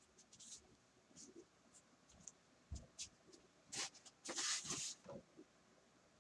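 Faint scratchy rustling and small clicks of hands handling a model locomotive and its shell, with a louder cluster about four to five seconds in.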